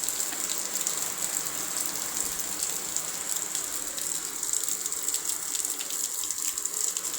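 Heavy rain falling steadily: a dense, even patter of many drops striking a surface.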